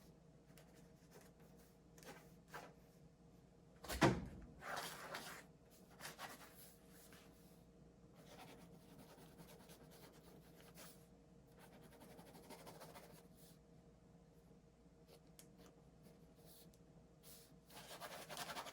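Quiet handling sounds in a small room: scattered rustles and knocks, with one sharp thump about four seconds in and a longer rustle near the end.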